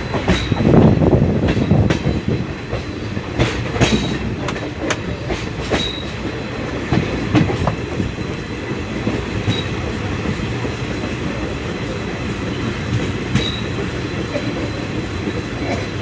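Indian Railways passenger train running on the track: a steady rumble with the wheels clicking and knocking over rail joints, the knocks more frequent in the first half, over a faint thin high tone.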